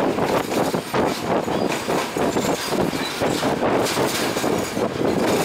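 Sri Lankan Class S10 diesel multiple unit running along the line, heard from an open carriage door: a steady rumble of wheels on the rails with irregular rattles and knocks, mixed with rushing air.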